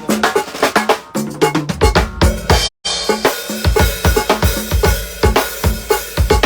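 A drum beat: kick drum, snare and cymbal hits in a steady rhythm. It cuts out completely for a split second a little before the midpoint, then comes back with a heavier kick.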